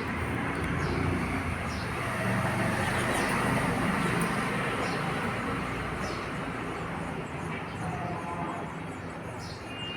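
Broad rumbling noise of a passing vehicle, swelling toward the middle and fading away near the end, with faint short bird chirps over it.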